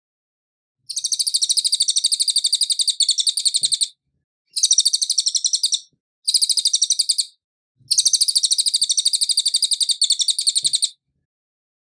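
Cililin songbird singing clear, high trills of rapidly repeated notes, about ten a second, in four phrases broken by short pauses; the longest phrases come first and last.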